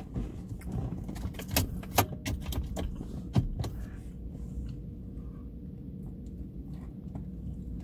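Someone eating cheesy fries, with sharp clicks and crackles of chewing and handling the food in the first few seconds, then quieter. A steady low hum of the car interior sits underneath.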